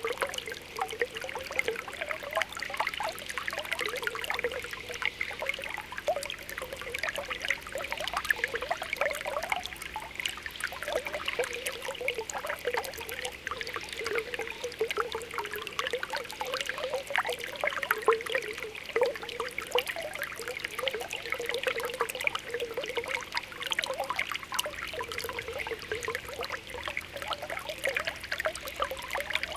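Spring water welling up from the ground, with continuous small popping and gurgling bubbles over a steady trickle.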